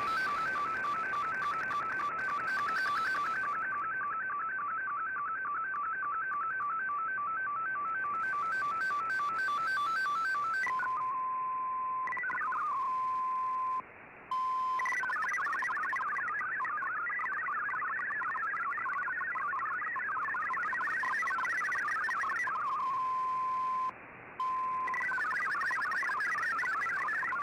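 Digital-mode data tones from a shortwave radio broadcast, MFSK as decoded by Fldigi. For about ten seconds two tones alternate quickly and evenly. Then a single steady tone sounds, giving way to a dense warble of rapidly hopping tones, broken by two brief silences.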